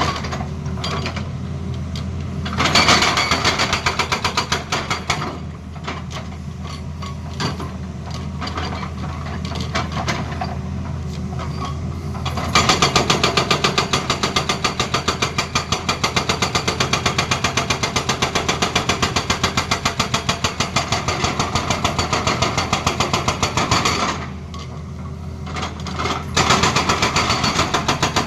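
Hydraulic breaker on a Tata Hitachi excavator hammering in rapid, even blows, in bursts with the longest lasting about ten seconds. The excavator's engine runs steadily underneath.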